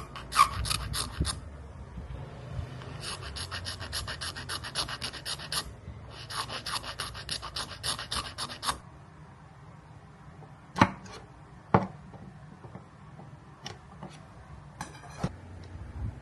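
Bone saddle being abraded by hand in two runs of quick back-and-forth scraping strokes, about eight a second, followed by a few sharp knocks and one more short scrape near the end.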